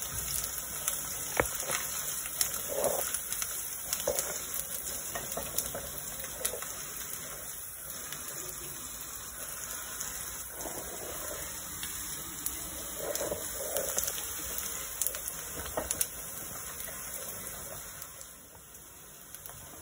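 Chopped onions and green chillies sizzling as they fry in ghee in a kadai, with a wooden spatula now and then clicking and scraping against the pan. The sizzle falls quieter for the last couple of seconds.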